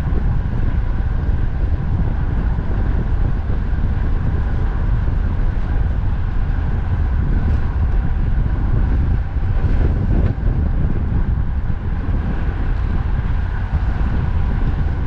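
Strong wind buffeting the microphone of a riding cyclist, a steady low rumble over the hum of road traffic.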